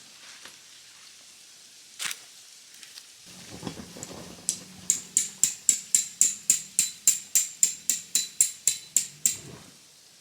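Rapid, evenly spaced metallic tapping, about four to five sharp strikes a second for some five seconds, over a low steady hum; a single knock comes earlier.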